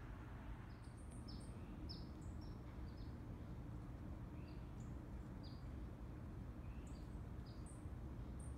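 Small birds chirping in the background: many short, high, falling chirps scattered through, over a steady low rumble.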